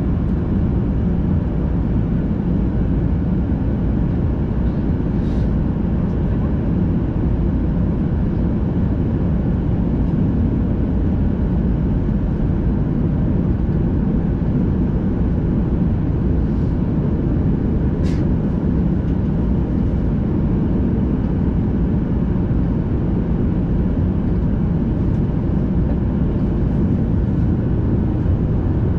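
Steady cabin noise of a Boeing 737-800 airliner in flight, a deep even rush of engines and airflow heard from inside the cabin, with faint steady tones running through it.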